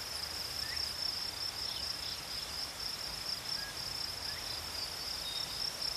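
Steady high-pitched insect chirring, like crickets, over a faint hiss, with a few very faint short chirps.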